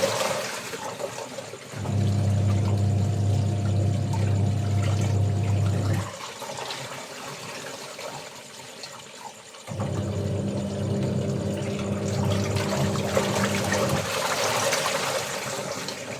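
Washing machine on its wash cycle: the motor hums in runs of about four seconds, stopping twice for a few seconds between runs, over the slosh of water in the drum. Insects chirr faintly and steadily in the background.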